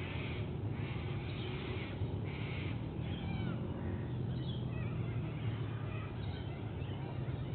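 Birds calling in the bush around the nest: three short harsh calls in the first few seconds, then many quick, high chirps. A steady low hum runs underneath.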